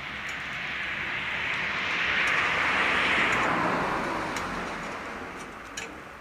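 A passing vehicle swells up and fades away, loudest about three seconds in, its pitch sliding down as it goes by. Through it a wood fire crackles and pops.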